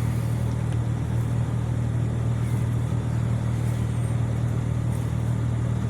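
Steady low hum of a car's engine and tyres on the road, heard from inside the cabin while driving.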